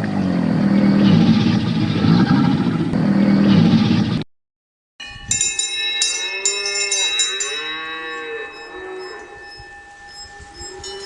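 Cow mooing loudly, a long low call for about four seconds. It cuts off, and after a short gap a quieter recording follows with clicks, steady ringing tones and rising-and-falling calls.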